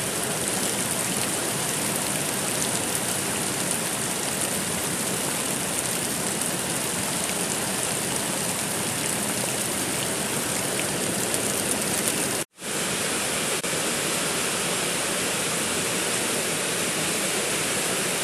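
Steady, dense rain hiss with no thunder. About two-thirds of the way through it cuts out for a split second, then resumes at the same level, a splice between two rain recordings.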